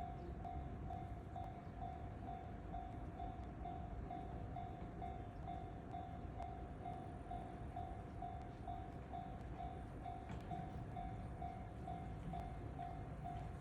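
EF210-hauled freight train running on the line, a steady low rumble, while a level crossing alarm rings with an even pulsing tone a little over twice a second.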